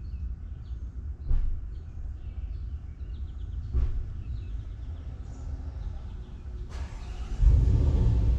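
Small birds chirping in short, scattered calls over a steady low rumble, with two brief thumps. Near the end a loud rush of noise with a heavy rumble comes in and drowns them.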